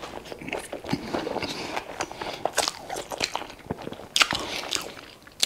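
Close-up chewing of a crispy breaded chicken burger: irregular crunching and mouth clicks, with a couple of sharper crunches near the end.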